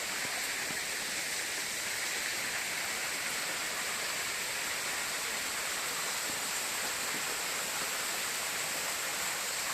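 Steady rush of falling water, unbroken and even throughout.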